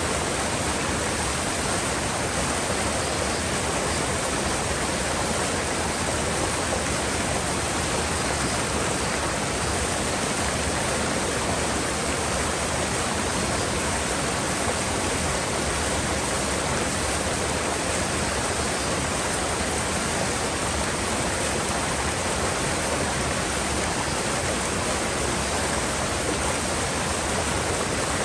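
Mountain river water rushing steadily over rocks, a constant even roar with no breaks.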